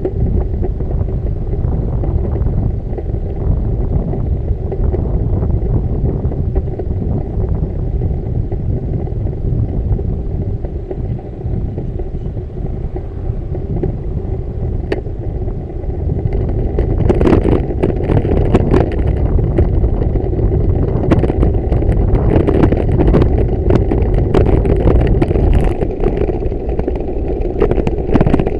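Wind buffeting the microphone and road rumble while riding a bicycle, steady throughout. From about halfway through, bursts of rattling clatter join in.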